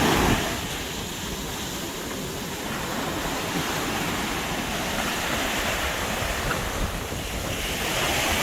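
Sea surf washing onto a beach, with wind buffeting the microphone.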